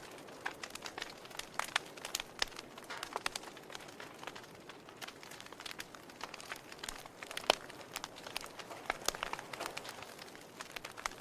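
Wood fire burning in a fireplace, crackling with irregular sharp pops over a soft steady hiss, one louder pop about halfway through.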